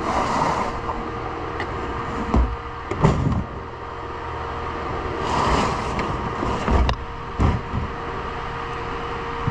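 A small utility vehicle's engine running steadily with a held whine, while several sharp knocks and thumps sound over it.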